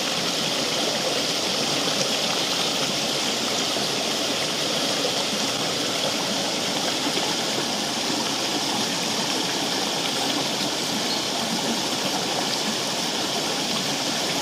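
Forest creek flowing, a steady rushing of water.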